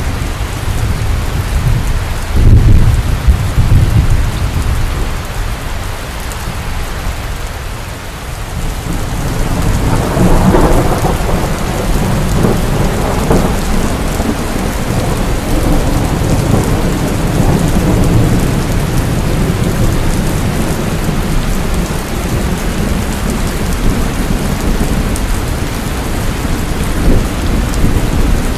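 Heavy rain falling steadily with thunder: a loud low rumble about two and a half seconds in, then a longer rolling rumble that builds from about ten seconds in and slowly dies away.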